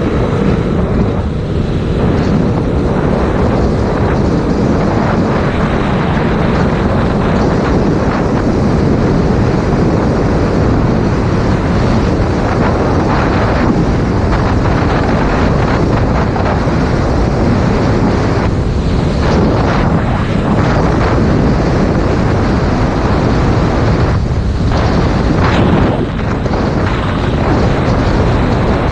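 Heavy wind noise buffeting an action camera's microphone as a Yamaha MT-07 motorcycle is ridden at speed, covering the bike's engine and the road sound.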